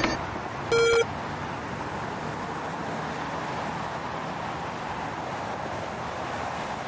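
One short electronic beep about a second in, then steady road and traffic noise from a vehicle.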